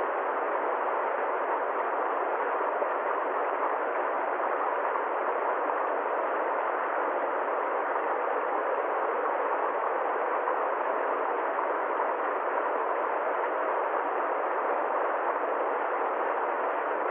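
A steady, unchanging hiss of noise, even in level throughout, with no deep rumble and no high hiss.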